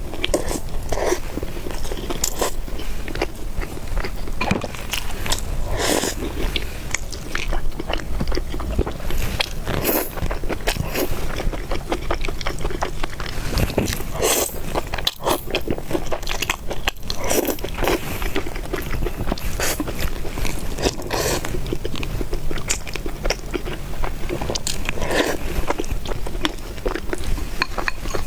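Close-miked eating of spicy noodles and meatballs: chewing and biting, with irregular sharp crunches and smacks all through.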